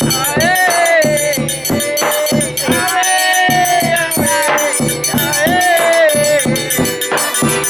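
Forró pé-de-serra played live: a melody that slides up and down in pitch over a steady rhythmic beat, with bright, even high-pitched percussion ticking throughout.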